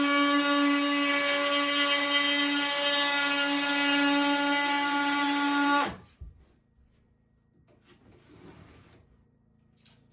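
Electric power tool running with a steady whine, then switched off about six seconds in. Faint handling noises and light clicks follow.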